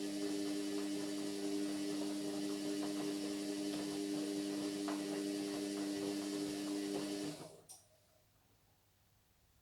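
Indesit MyTime washing machine running with a steady hum and light ticking, which stops about seven seconds in, followed by a single click.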